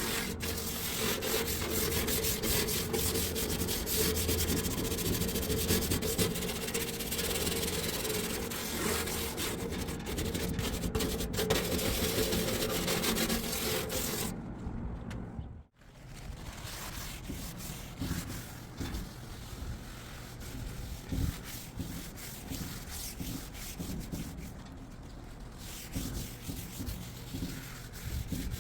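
Hand scrubbing of a grimy surface: a steady, scratchy rubbing. About halfway through it cuts off abruptly, then goes on quieter, with a few knocks.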